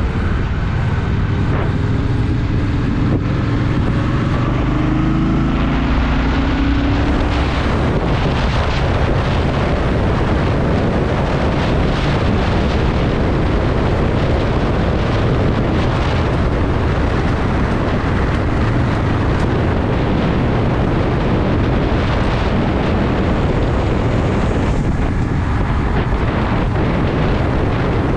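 Honda Shadow VT750's V-twin engine pulling away, its pitch rising over the first few seconds, then running steadily at speed under a constant rush of wind.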